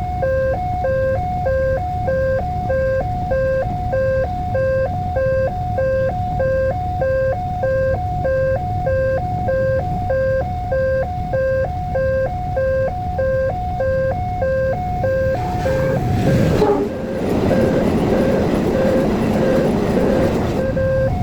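Railway level-crossing warning alarm sounding a repeating two-tone signal, high and low notes alternating evenly. About fifteen seconds in, a train passes the crossing and its rumble and wheel noise build to cover the alarm.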